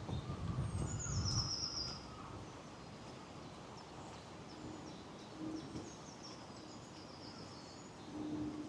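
Small woodland songbirds singing, with high thin calls and a short rapid trill about a second in, over a low rumble in the first couple of seconds. A faint steady low hum comes in briefly about halfway through and again near the end.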